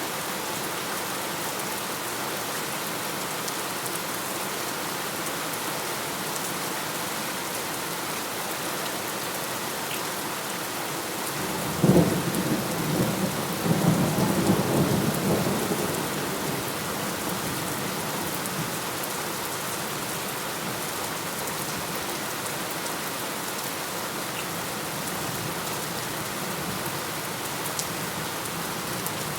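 Steady rain falling, with a sudden crack of thunder about twelve seconds in that rolls on for several seconds before dying away.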